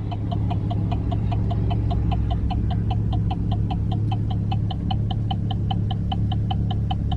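A rapid, regular ticking or chirping, about five to six a second, over a steady low hum.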